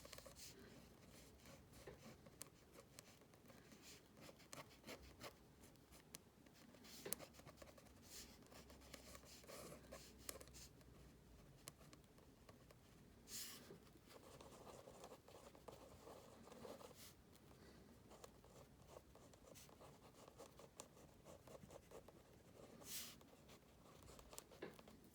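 Faint scratching of a drawing tool on paper in many quick short strokes, with two longer, louder strokes about halfway through and near the end.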